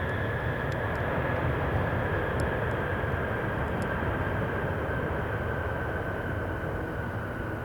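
Boeing 747 jet engines passing close by on landing: a steady rush with a high engine whine that sinks slightly in pitch as the sound slowly fades.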